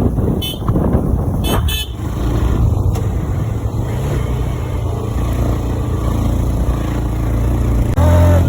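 Motorcycle engine running with road and wind noise while riding, with two short horn toots in the first two seconds.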